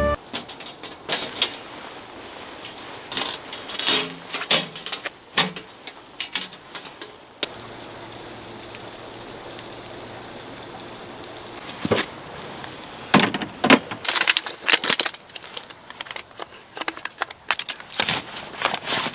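Scattered clicks, rattles and knocks of objects being handled, with a steady low hum for several seconds in the middle.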